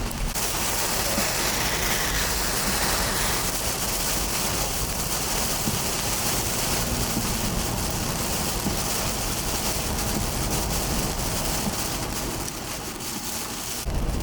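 Heavy hurricane rain pouring down in a steady hiss, dipping slightly near the end.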